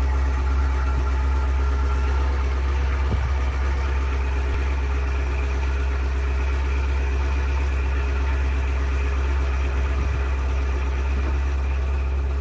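Chevrolet Camaro convertible's engine idling steadily, a deep even hum.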